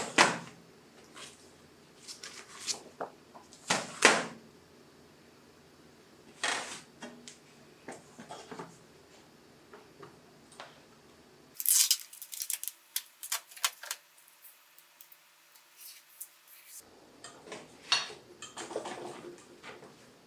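Intermittent small knocks, clicks and clatter of objects being handled, with a quick run of sharp clicks in the middle.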